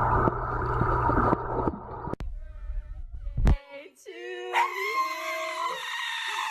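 A dog whining and howling in wavering, pitched cries, after a stretch of dense rushing noise that cuts off about two seconds in.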